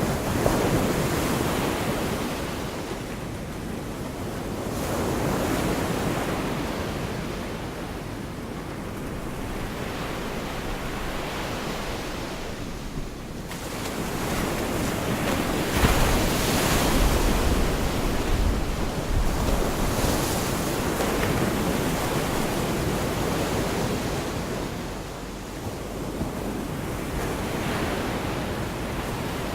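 Gulf of Mexico surf washing onto the beach in slow swells every several seconds, with wind buffeting the microphone. The loudest surge comes a little past the middle.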